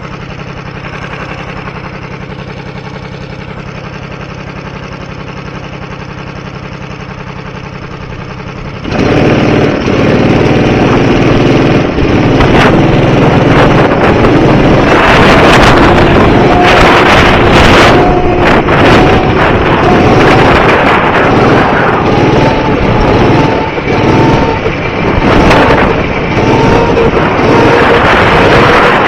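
Go-kart engine idling steadily. About nine seconds in it revs up sharply as the kart pulls away, then runs at speed, its pitch rising and falling, with heavy wind buffeting the microphone.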